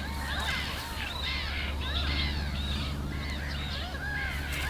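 A flock of birds calling over one another in many short, arching calls, over a steady low hum.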